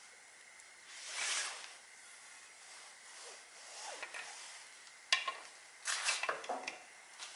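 Hand work on a car engine during a valve cover gasket job: a short rubbing scrape about a second in, then sharp metal clicks and a quick clatter of tools near the end.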